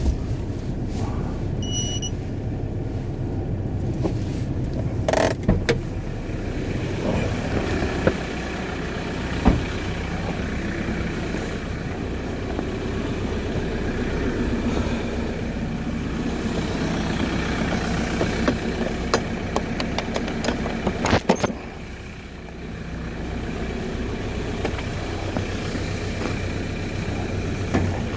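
Car running with a steady low hum, with a short electronic beep about two seconds in and a few sharp knocks and clatters.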